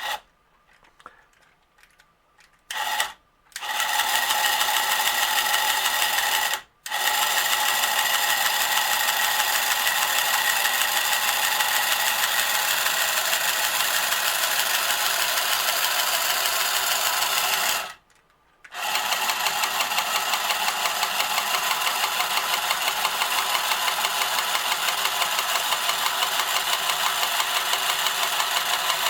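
Marx Moon Scout toy helicopter's small motor and gearing whirring as it spins the plastic rotors and drives the wheels. It starts a few seconds in after a short blip, then runs steadily, cutting out briefly twice as the button is released and pressed again.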